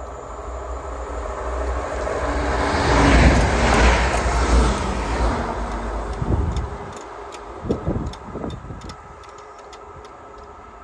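Electric passenger train passing on the tracks: a rushing roar of wheels on rail swells to a peak about three to four seconds in and then fades. Sharp clicks follow as it runs on, with a few dull thumps near the end.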